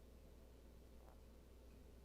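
Near silence: room tone with a low steady hum and one faint tick about a second in.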